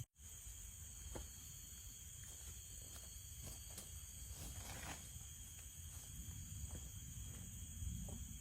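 Forest ambience: a steady, high-pitched insect chorus of crickets or cicadas, with scattered faint clicks and ticks and a low rumble beneath. There is a split-second gap at the very start.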